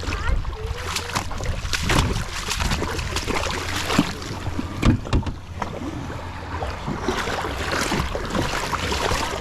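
Jet ski running on open water, its engine a steady low hum under heavy wind buffeting on the microphone and irregular slaps of water and spray.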